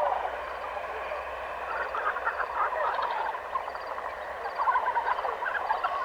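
Many animals calling at once: a dense, continuous chorus of short, rapid, overlapping calls, swelling slightly near the end.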